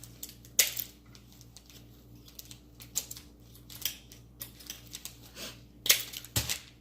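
Craft wire being snipped into short pieces: several sharp clicking snips, the loudest about half a second in and near the end, along with handling of the wire.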